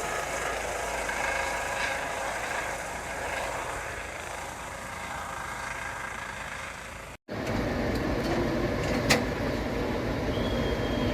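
A vehicle engine running steadily. About seven seconds in the sound cuts to a louder, lower engine rumble with a few sharp clicks.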